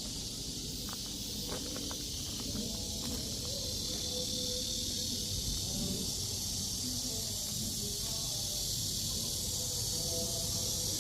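Steady high-pitched insect chorus, a continuous shrill hiss that swells slightly. Faint low tones and a few light clicks sit underneath it in the first few seconds.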